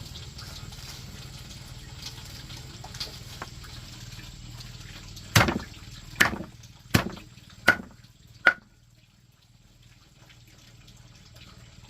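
Water trickling and dripping steadily, then five sharp knocks in a row a little under a second apart, the last two with a short ringing tone.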